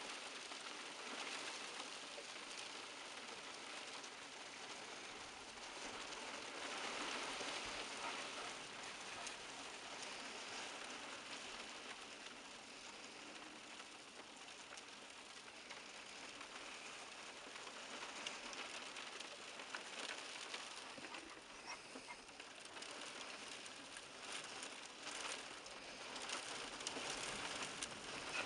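Hail falling and striking surfaces: a dense, steady hiss of countless small ticks that swells a little about a third of the way in and again near the end.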